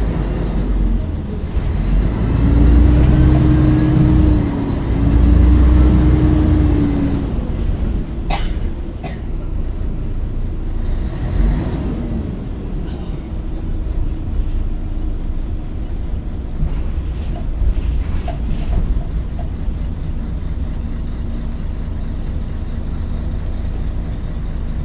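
Scania L113CRL bus under way, its engine pulling hard early on with a note that rises and falls twice. It then settles into steadier, quieter running. A couple of sharp clicks come about eight seconds in.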